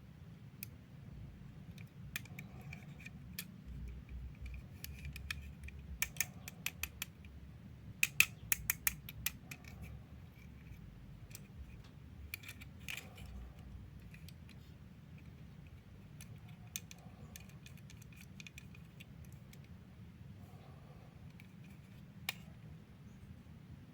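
Sharp clicks and light rattles of small plastic parts being handled, in scattered single ticks and two quick flurries near the middle, over a low steady hum.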